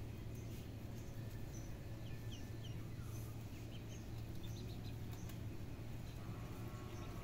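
Scattered short, high bird chirps and peeps over a steady low hum, with a brief buzzy call near the end.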